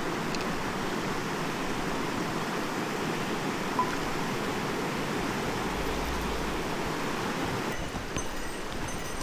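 Steady rushing of a mountain stream's flowing water, with one brief click a little under four seconds in.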